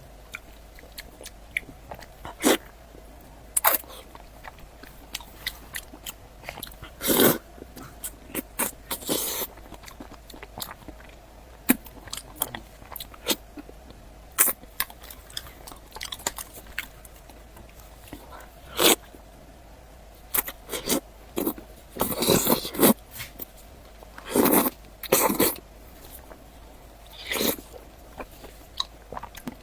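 Close-miked mouth sounds of a person eating: irregular bites, wet smacks and chewing, with a few longer bursts of chewing now and then.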